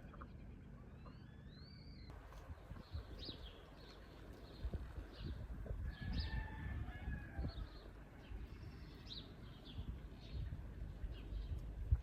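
Small birds chirping, with short high chirps repeating irregularly after the first couple of seconds over a low outdoor rumble.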